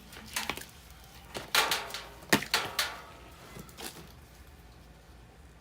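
A few sharp clicks and scrapes of wiring being fastened inside a gas furnace cabinet, the loudest about a second and a half and two and a half seconds in.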